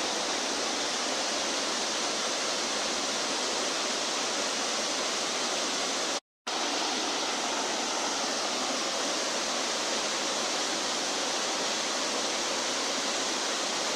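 Waterfall rushing in a steady roar of falling water, cut off for a split second about six seconds in.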